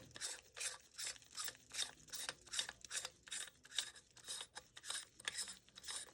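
Threaded top section of an airsoft rifle suppressor being unscrewed by hand, the threads rasping in short, even strokes about three times a second.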